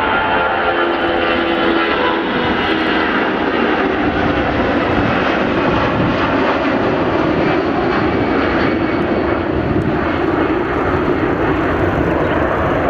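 Airbus A340 jet engines running loud and steady, a dense roar with a faint whine.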